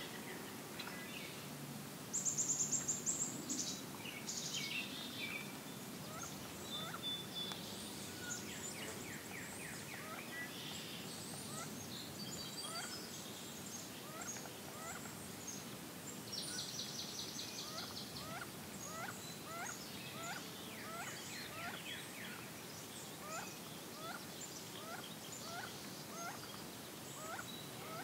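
Marsh birds calling: one bird gives a long series of short, hooked call notes repeated about once or twice a second, while other birds add high song phrases, the loudest a rapid high trill about two seconds in.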